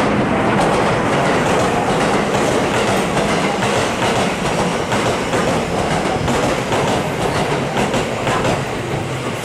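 A JR West 223 series six-car electric train pulls into the station and runs past, its wheels clacking over rail joints.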